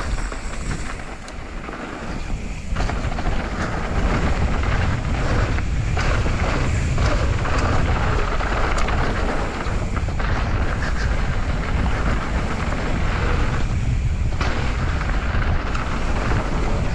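Mountain bike rolling fast down a dirt trail: wind buffeting the action camera's microphone over tyre and frame rattle. The sound grows louder and more rumbling about three seconds in as speed builds, with a few short dips.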